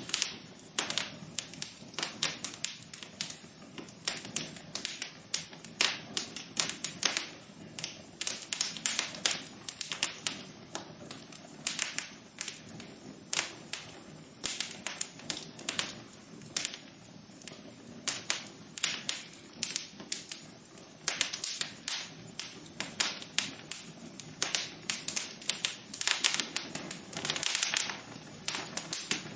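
Wood fire crackling in a fireplace: dense, irregular sharp pops and snaps over a low steady hiss of burning.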